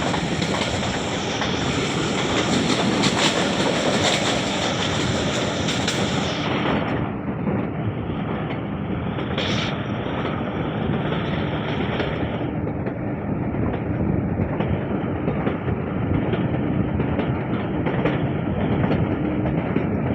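Passenger train running along the track, heard from on board: a steady rumble of wheels on the rails with clickety-clack over the rail joints. A brief high-pitched sound cuts through about nine and a half seconds in.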